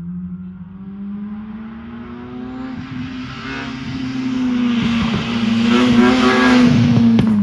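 A rally car's engine approaching under power, getting steadily louder, its pitch rising slowly; loudest in the last two seconds.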